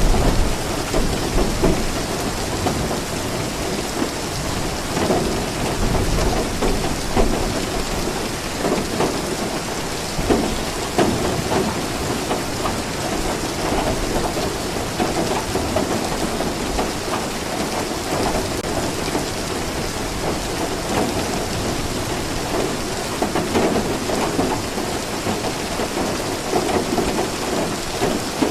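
Steady, heavy rain falling, a dense even hiss, with a low thunder rumble near the start.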